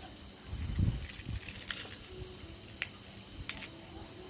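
Insects trilling steadily at one high pitch, with a few low thuds about a second in and several sharp clicks later on.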